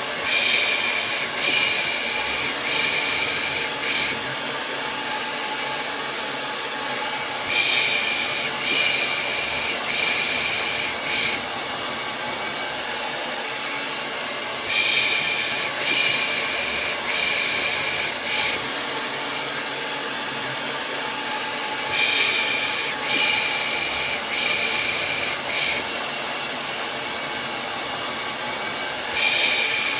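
Hair dryer running with a steady whoosh. Over it comes rhythmic 'shh' shushing to soothe a baby, in sets of four about a second apart, each set returning every seven seconds or so.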